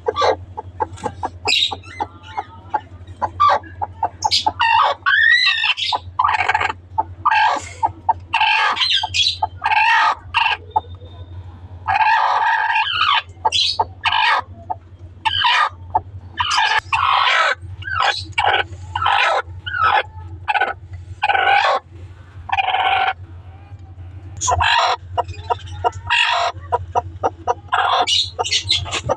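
Colony of small parrots chattering and squawking, many short harsh calls overlapping one after another, over a steady low hum.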